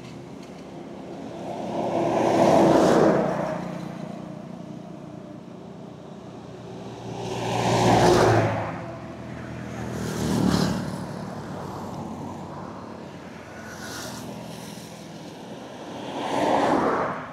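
Road vehicles passing close by one after another, about five in all, each rising and fading away; the loudest pass at about two and a half seconds in and again at about eight seconds in.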